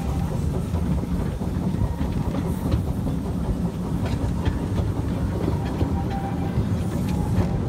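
Small narrow-gauge train running steadily, heard from aboard a carriage: a continuous low rumble of wheels on track, with scattered irregular clicks as the wheels cross rail joints.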